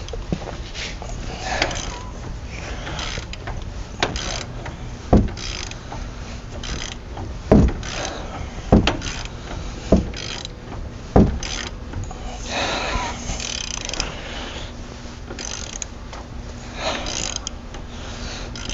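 Hand ratchet working a tight nut loose: runs of pawl clicking and metal scraping, with five heavy clunks about a second apart in the middle.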